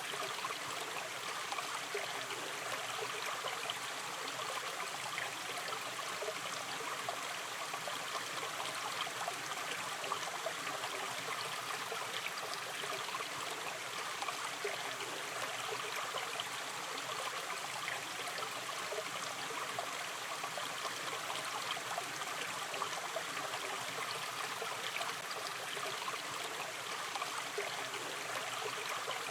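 Shallow river stream flowing steadily over stones, a continuous rush of water with fine splashing and trickling.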